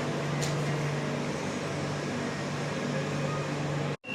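Steady running noise inside a metro train car: a low, even hum under a constant rush of noise.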